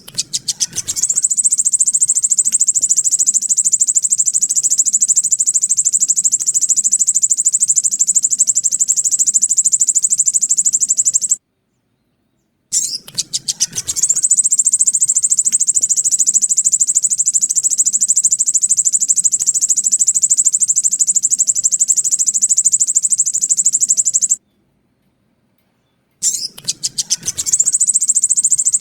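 Sogon sunbird song used as a lure call: a very high, rapid trill. Each bout opens with a few separate notes that quicken into an unbroken trill lasting about eleven seconds, then cuts off. The bouts repeat after short gaps, with a third starting near the end.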